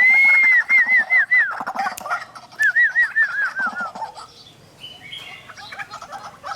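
White-breasted waterhens calling: a long arching note, then two runs of short arched hoots that step down in pitch, over lower chattering calls. The calling dies down to faint notes after about four seconds.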